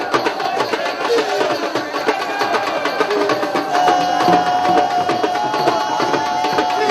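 Fast drumming with sharp, clicking percussive strokes, joined about four seconds in by a long held high note.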